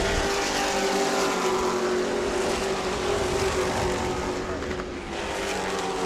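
Pack of racing trucks' V8 engines running at speed around the track, several engine notes layered together and slowly falling in pitch, fading a little about five seconds in.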